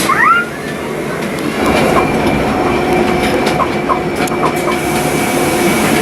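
Núria rack railway train running downhill: steady running noise with clicks and short squeaks from the wheels and track, and a thin steady whine that sets in about a second and a half in.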